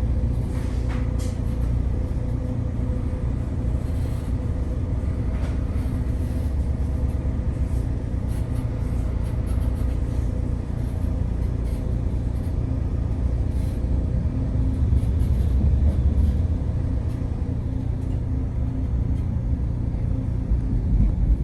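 Steady low rumble of a moving TexRail commuter train heard from inside the passenger car, with a faint steady hum and a few light clicks over it.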